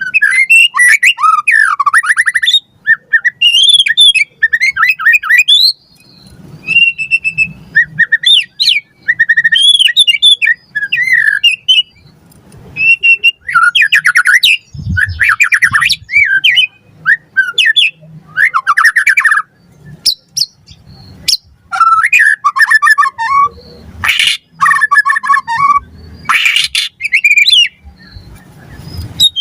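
White-rumped shama singing a fast, varied song: clear whistled phrases and quick trills mixed with harsh, chattering notes, in bursts with short pauses between phrases.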